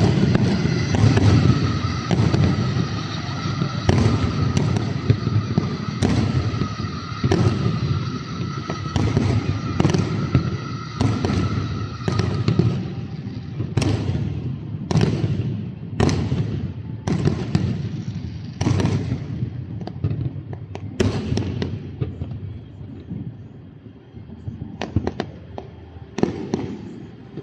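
Aerial fireworks display: a rapid run of sharp bangs, roughly one a second, over a continuous low rumble of shell bursts. The bangs thin out and grow quieter in the last few seconds.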